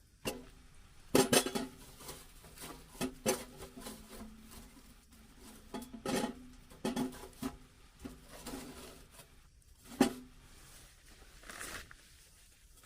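Irregular knocks and light metallic clinks of gear being handled, with sharper knocks about a second in, around six seconds and near ten seconds, and a faint ring between them.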